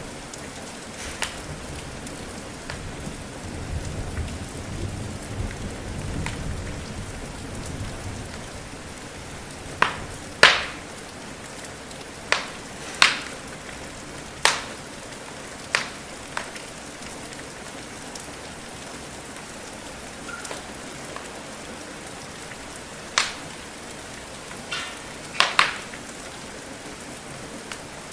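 Steady rain falling, with sharp scattered pops and crackles of a wood fire burning in a fireplace. A soft low rumble from about four to eight seconds in.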